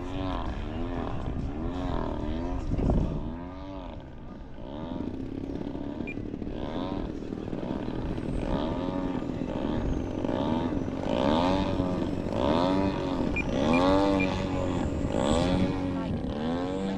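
Extra 260 RC aerobatic airplane's motor and propeller buzzing in flight, the pitch swinging up and down again and again as it manoeuvres and passes. A brief low thump about three seconds in.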